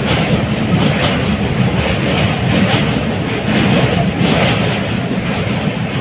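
Train running, a steady rumble with faint regular swells of wheel clatter.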